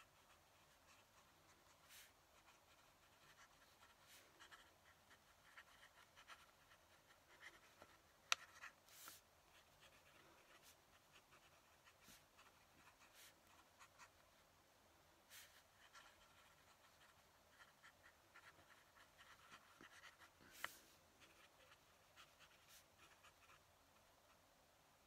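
Faint scratching of a fountain pen nib on paper in short, irregular strokes, with two sharp clicks, one about eight seconds in and one about twenty-one seconds in.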